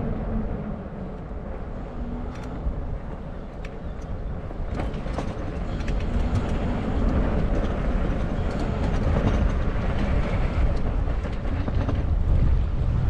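Riding noise from an e-bike camera: wind buffeting the microphone and a steady tyre rumble, with scattered clicks and rattles from the bike over bumps. The rumble is softer for the first few seconds, then grows louder.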